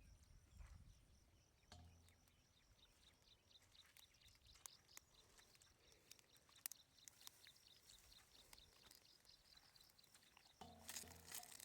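Faint, high-pitched animal chirping, repeated several times a second, with a couple of soft low thuds near the start and near the end.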